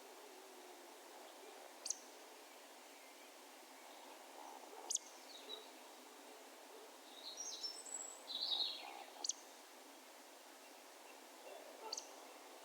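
Wild birds calling in the distance over an open field: four short, sharp, high calls spaced a few seconds apart, and a brief burst of twittering chirps in the middle, over a faint steady background hiss.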